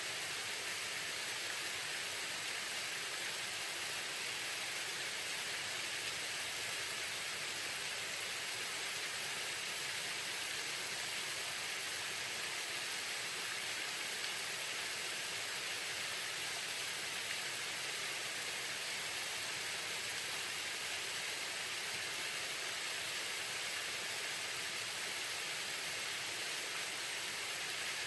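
Waterfall pouring steadily: an even, unchanging rush of falling water.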